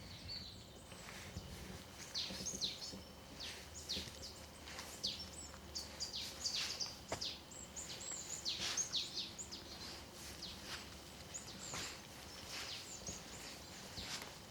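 Small songbirds calling: many quick, high chirps that each sweep downward, coming thickest in the middle stretch, over a faint steady outdoor hiss.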